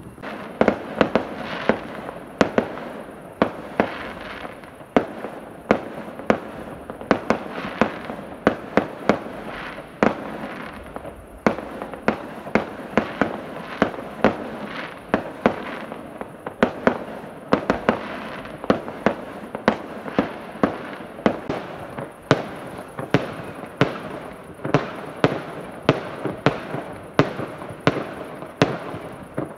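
Many fireworks going off at once across a town: a continuous volley of sharp bangs and pops, about two or three loud reports a second, over a steady background of overlapping crackle.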